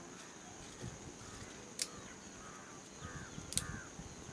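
Crows cawing several times in short arched calls, with two sharp clicks, one a little under two seconds in and one near the end.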